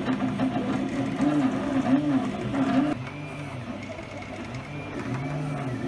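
FDM 3D printer's stepper motors whining as the print head moves, each move rising and falling in pitch. About halfway through it gets quieter, with slower, lower whines.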